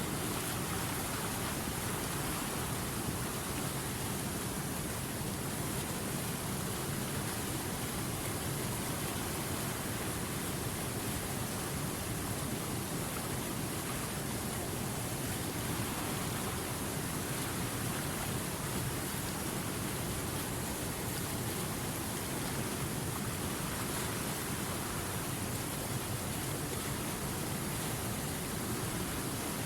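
River water flowing and cascading over rocks, a steady rushing noise that doesn't change.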